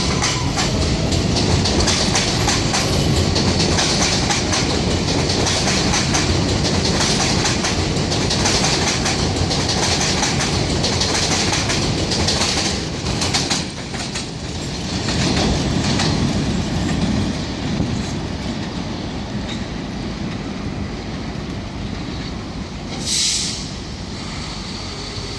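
R142A New York City Subway train pulling out of the station, its wheels clattering over the rail joints as it runs away down the line. The noise stays loud for about thirteen seconds, then thins out, with a short high hiss near the end.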